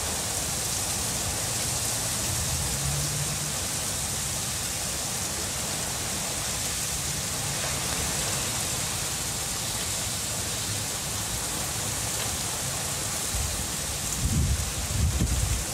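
Steady rain falling, an even hiss of raindrops. A low rumbling rises near the end.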